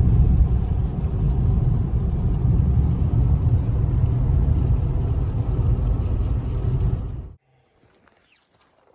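A loud, steady low rumble that cuts off suddenly about seven seconds in, followed by a few faint clicks.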